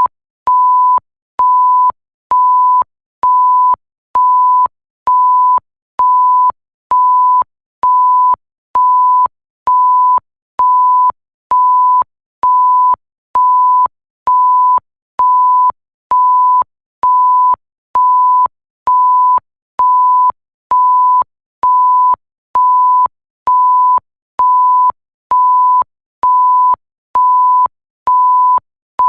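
Electronic bleep: a pure 1 kHz tone beeping on and off about once a second, each beep lasting most of a second with a short gap and a faint click at each start and stop.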